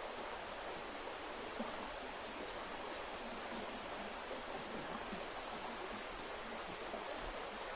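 A river rushing steadily, with an insect's high, steady buzz above it that breaks off briefly every now and then.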